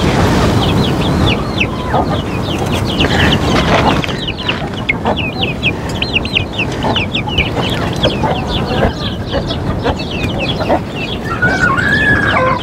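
Flock of Australorp and Sultan chicks peeping continuously, many short falling chirps a second, with a hen clucking among them. Near the end a longer, wavering, lower call stands out.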